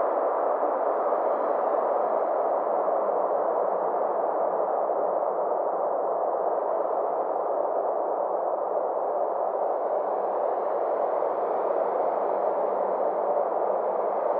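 Synthesized space ambience: a steady drone of filtered noise, centred in the middle range, with a slow sweep rising and falling in its upper edge.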